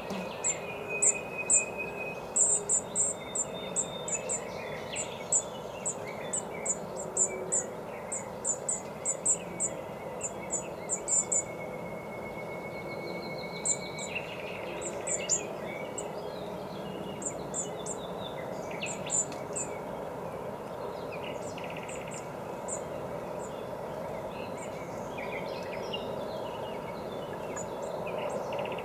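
Small songbirds calling around a birdbath: many short, sharp, high notes, thickest in the first ten seconds or so and scattered after, with a couple of long, even trills. A steady background hiss runs under them.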